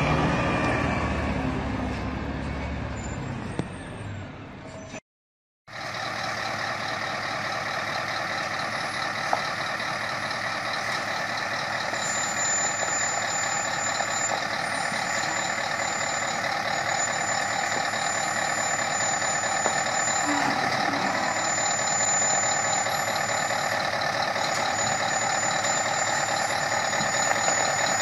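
A heavy truck engine running, fading away over the first few seconds and broken by an abrupt cut to silence. After the cut, a heavy vehicle runs steadily with a high, even whine and a faint thin tone that comes and goes.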